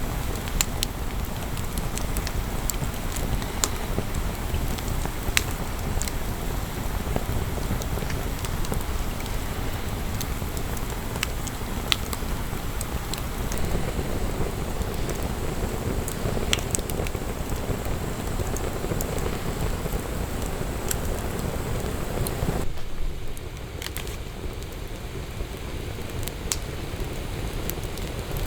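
Wood fire burning in a fire pit, crackling with scattered sharp pops over a steady low rumble. About 23 seconds in the low rumble drops away suddenly and the crackling goes on quieter.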